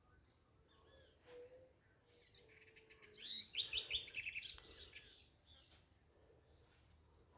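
Birds chirping and singing, with a loud, fast run of repeated high chirps about three seconds in that lasts around two seconds.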